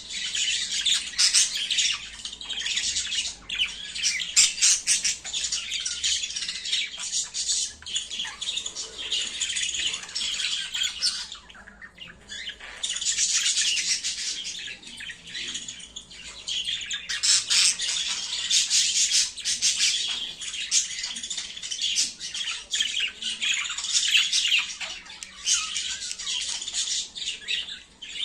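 Budgerigars chattering: a fast, nearly unbroken stream of chirps, warbles and squawks, with a short lull about twelve seconds in.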